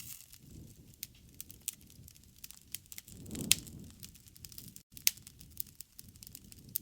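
Campfire crackling: irregular sharp pops and snaps over a low rumble, with one louder pop about halfway through.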